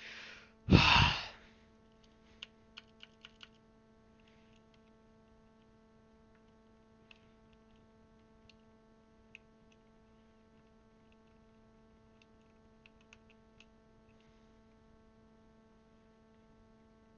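A loud sigh about a second in, then faint plastic clicks of keycaps being pushed onto a mechanical keyboard: a quick run of about five just after two seconds, then scattered single clicks. A steady electrical hum runs underneath.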